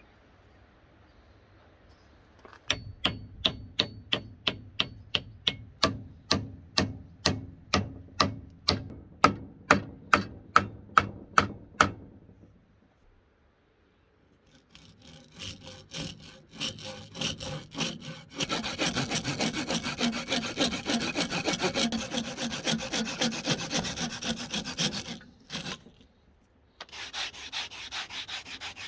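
Hand tool rubbed in strokes over wood: about two even strokes a second for some ten seconds, then, after a short pause, faster and denser strokes that stop briefly and start again near the end.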